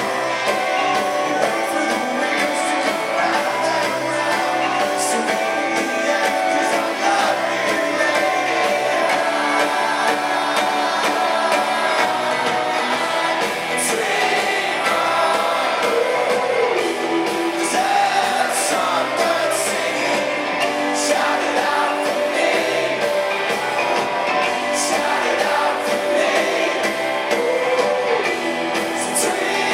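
Rock band playing live in a concert hall, with a male lead vocal singing over the band.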